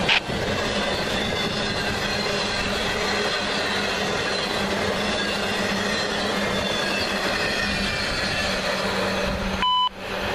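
Empty intermodal flatcars of a CSX freight train rolling past: a steady rumble of steel wheels on rail with a wavering high squeal from the wheels. Near the end the train noise drops away briefly under a short electronic beep.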